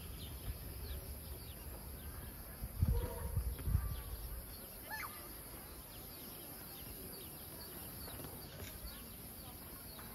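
Outdoor ambience of small birds chirping, with short high calls scattered throughout and one clearer call about five seconds in. A couple of low rumbles come about three seconds in.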